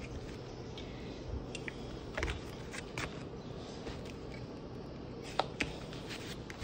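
Scattered light clicks and taps of hard parts being handled while a refrigerator compressor is being fitted in place, over a low steady hum.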